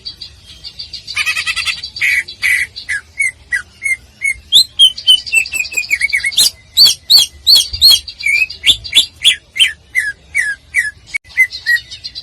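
Greater green leafbird (cucak ijo) singing loudly: a buzzy trill, then a fast, varied run of short whistled notes, many sliding downward, about three to four a second.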